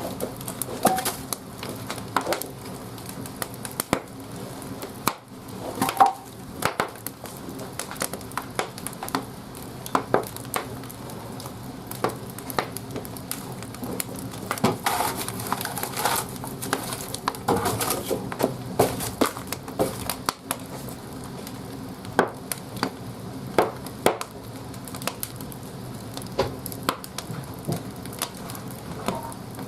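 Firewood burning in a bathhouse boiler's firebox, crackling with irregular sharp pops over a steady low hum.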